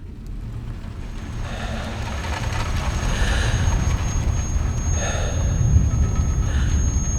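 Race car engines in a low, steady rumble, with a thin high whine over it and swells of noise, growing steadily louder.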